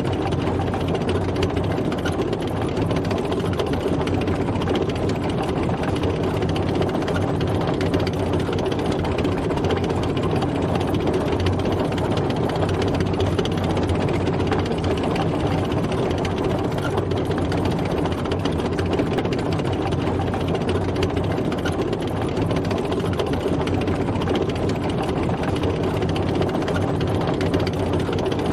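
Tank driving: its engine running steadily, with no change in pitch or speed, over a dense mechanical rattle.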